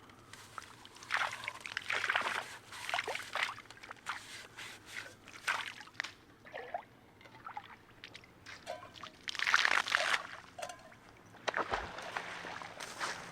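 Water sloshing and splashing in irregular short bursts.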